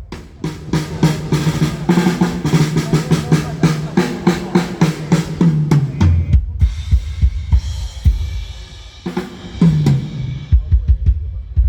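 Drum kit played at a sound check: fast runs of snare and tom strokes, a heavy low hit about six seconds in with a ringing wash after it, then a short fill and bass drum beats near the end.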